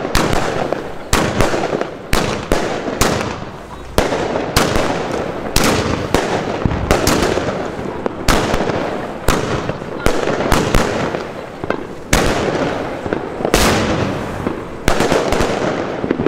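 Nordlicht 'Der Ultra' firework battery firing a rapid sequence of shots. Sharp bangs come about one or two a second, with a continuous crackle of bursting stars between them.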